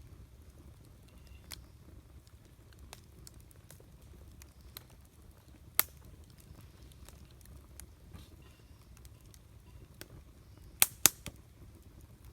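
Wood campfire burning with a low steady rumble and scattered crackles. There is one sharp pop about six seconds in and two loud pops close together near the end.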